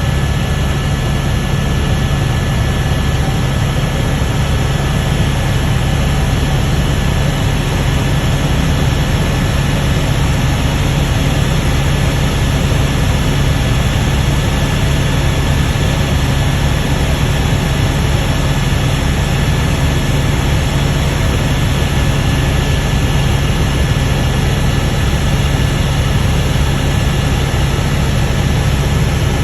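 Helicopter in flight: steady, loud engine and rotor noise with a low hum and a faint high whine, unchanging throughout.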